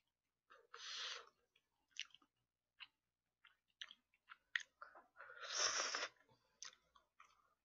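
Close-miked chewing and mouth sounds of a person eating braised chicken: scattered wet smacks and clicks, with two longer noisy stretches, about a second in and near the six-second mark.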